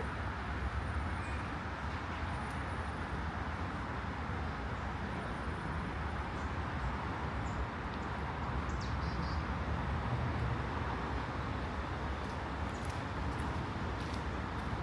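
Steady outdoor city-park ambience: an even low rumble of distant traffic, with a few faint high bird chirps about nine seconds in.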